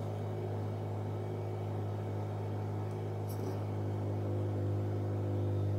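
Car engine idling, heard as a steady low hum from inside the cabin.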